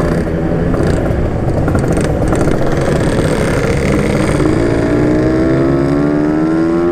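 Yamaha RX-King's two-stroke single-cylinder engine running under way, its pitch climbing steadily over the last couple of seconds as the bike accelerates.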